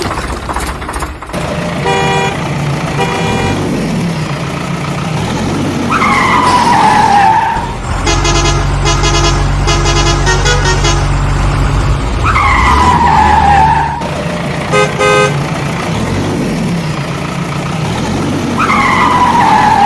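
Cartoon vehicle sound effects: short horn toots, a falling tone heard three times, and a stretch of rapid beeping over a steady low engine rumble in the middle.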